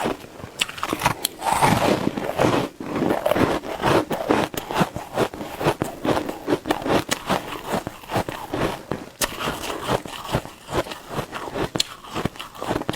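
Shaved ice being bitten and chewed, a rapid, irregular run of crisp crunches and scrapes.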